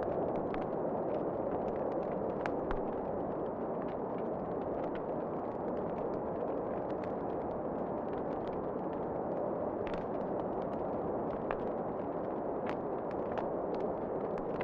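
Wood fire crackling in a fireplace: irregular sharp pops and snaps over a steady low rush of flame.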